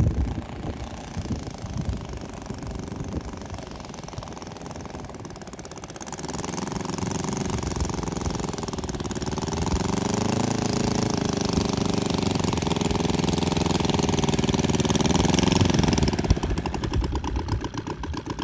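Two-stroke 60cc NGH 60i2 inline-twin petrol engine of a large RC model plane idling on the ground, then opened up to a steady higher throttle about six seconds in, held for about ten seconds, and throttled back to an even idle near the end.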